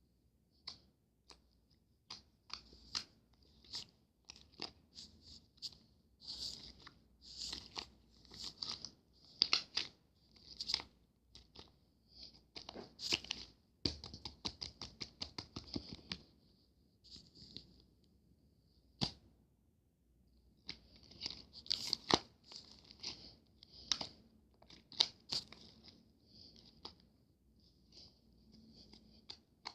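Close, irregular crisp crunching and crackling, in quick clusters of short strokes with brief pauses between them.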